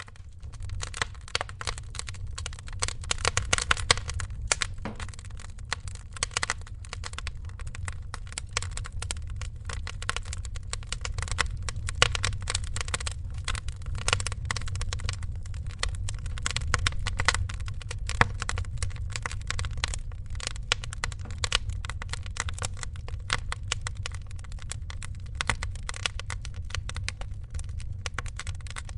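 Wood fire crackling and popping in a fireplace: dense irregular snaps over a low rumble of burning logs. It begins abruptly right after a moment of silence.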